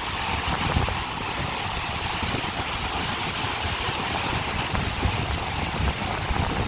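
Surf of the rough Caspian Sea washing onto the beach in a steady hiss, with gusting wind buffeting the microphone.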